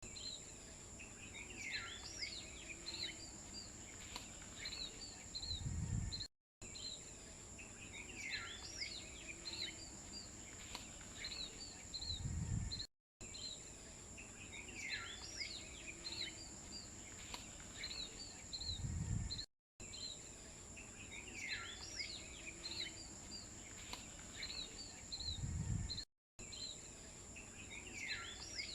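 Birds chirping over a steady high insect-like buzz. It is a short loop of outdoor ambience that repeats about every six and a half seconds, with a low thud and a brief dropout at each repeat.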